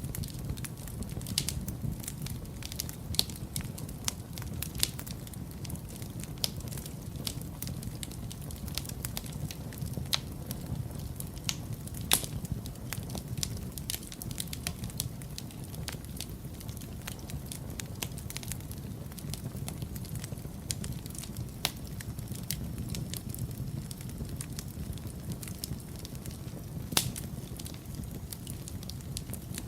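Wood fire burning in a fireplace: a steady low rumble of flames with frequent small crackles and an occasional louder pop, one about twelve seconds in and another near the end.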